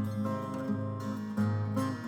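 Acoustic guitar playing the instrumental intro of a folk song, sustained strummed chords and notes changing every half second to second, before any singing comes in.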